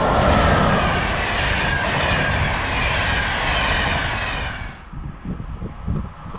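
Electric locomotive-hauled passenger train passing close by at speed: loud rushing wheel and rail noise with some clickety-clack, which cuts off sharply about five seconds in as the last coach clears, leaving an uneven low rumble.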